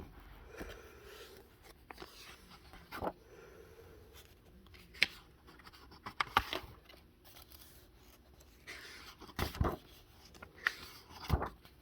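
Paper pages of a coloring book being handled and turned: scattered soft rustles and crisp page flips, several over the stretch.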